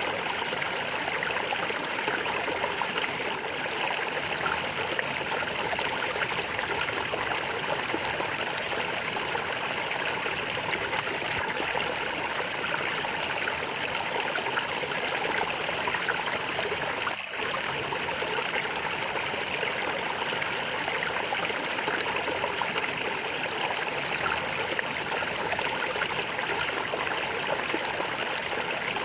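Small stream of water flowing and gurgling steadily over stones, with a fine trickling texture, briefly dipping about two-thirds of the way through.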